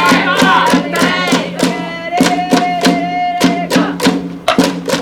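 A cheering section in a ballpark's stands: a drum beating steadily about four times a second under group chanting and singing, with a held note through the middle.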